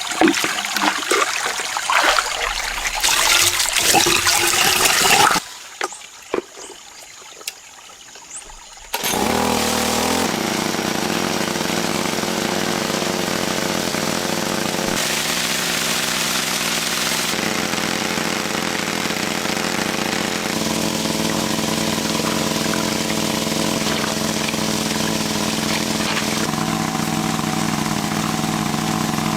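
Water splashing and sloshing for about five seconds, then a few seconds of quiet with faint knocks. From about nine seconds in, a small engine runs steadily, starting abruptly.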